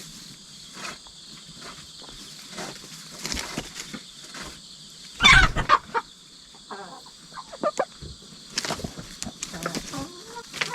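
Hens clucking and calling in short bursts, with one loud sudden burst of sound about halfway through. A steady high insect chirring runs underneath.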